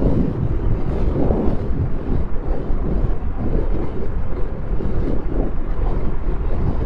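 Royal Enfield Thunderbird 500 single-cylinder engine running at highway speed, heard from the rider's microphone under steady wind buffeting.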